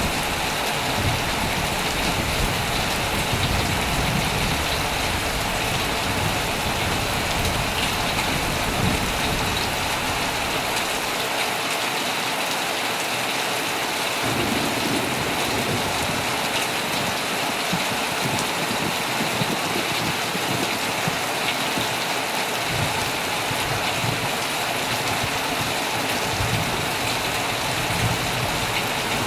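Heavy rain falling steadily on a tent, a dense even hiss of drops, with a low rumble underneath that fades out for a few seconds midway and returns.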